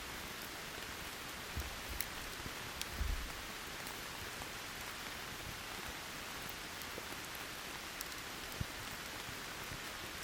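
Steady rain falling, with scattered sharp ticks and a few short low thumps about one and a half and three seconds in.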